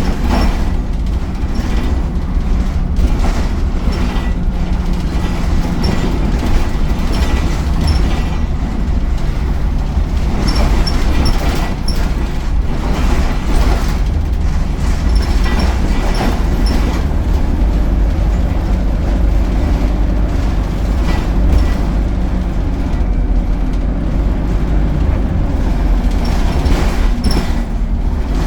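ADL Enviro 200 bus heard from on board, its diesel engine and Allison automatic driveline running under a steady rumble of road noise. The engine note shifts a few times, and knocks and rattles from the body come through now and then.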